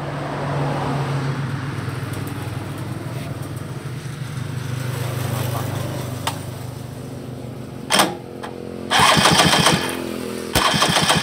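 A small motorcycle engine running steadily, with a sharp knock about eight seconds in and two louder, harsher bursts near the end.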